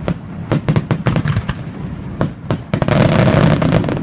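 Aerial fireworks bursting in quick succession: many sharp bangs, a few each second, with a dense, louder stretch of overlapping crackle about three seconds in, over a steady low rumble.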